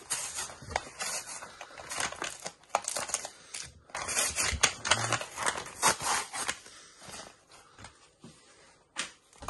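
Packaging of a Pokémon card collection box being torn and crinkled open: dense tearing and rustling for about six and a half seconds, then quieter, sparser handling.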